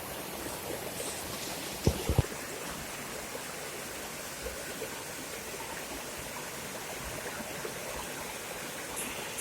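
Steady rush of flowing floodwater, with a few sharp knocks close together about two seconds in.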